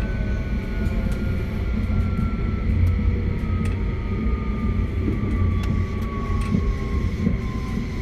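Running sound of a 271 series electric train with a Hitachi SiC inverter: steady wheel-on-rail rumble under a thin motor and inverter whine that slides slowly down in pitch as the train slows.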